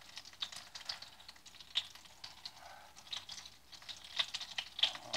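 Flour-and-egg-dredged chicken cutlets frying in olive oil in a skillet: light, irregular crackling with small pops.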